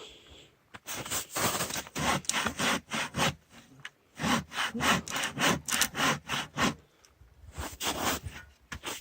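Hand saw cutting through a tree trunk in quick back-and-forth strokes, about three a second, in three runs with short pauses between them. The cut is near the point where the tree will fall.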